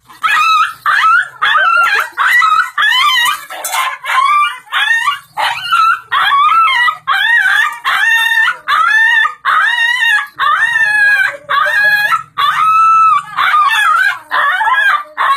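A dog yelping and whining in a continuous run of short, high-pitched cries, nearly two a second, the sound of a frightened dog.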